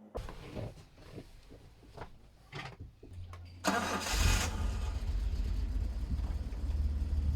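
The 1983 Autovilla camper van's engine being started: a few knocks and clicks, then a brief burst of cranking almost four seconds in, after which the engine catches and settles into a steady low idle.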